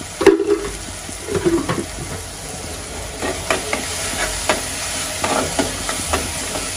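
Onion-tomato masala sizzling in a metal kadhai while a steel spoon stirs it, with repeated short scrapes and clinks of the spoon against the pan from about three seconds in and a louder knock just after the start.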